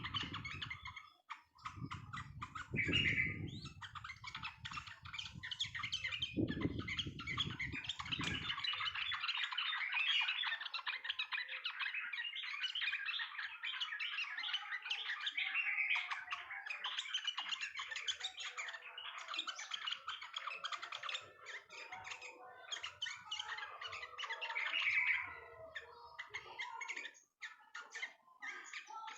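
Yellow-vented bulbul (trucukan) singing a rapid, unbroken run of chattering chirps. A low rumble underlies the first nine seconds or so.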